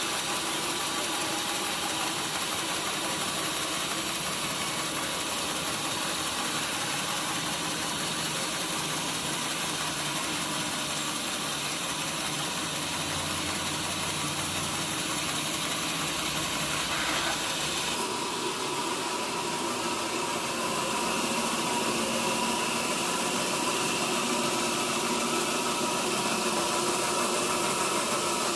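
Sawmill machinery running steadily: an engine-like hum under a broad hiss, with a change in the sound about two-thirds of the way through.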